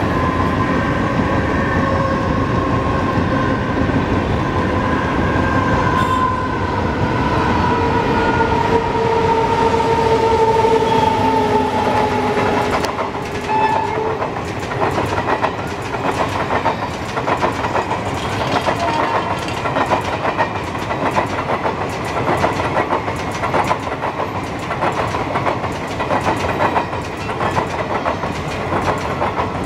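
WAP-7 electric locomotive sounding one long horn blast of several tones together, sliding slowly down in pitch for about the first thirteen seconds, then a short toot. The express's passenger coaches then pass close by, wheels clattering rhythmically over the rails.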